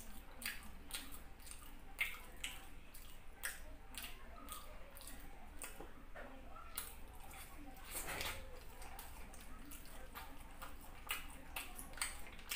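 A person chewing chicken and fufu eaten by hand, close to the microphone: a steady run of short wet smacks and clicks from the mouth, a few a second at irregular spacing.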